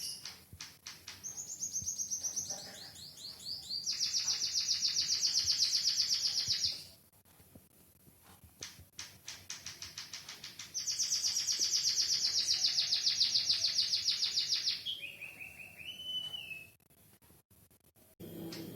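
Emprit kaji (white-headed munia) singing a canary-like song learned from canary tutoring: two long, very fast, high trills of several seconds each, with soft chirps between them and a shorter, lower trill near the end.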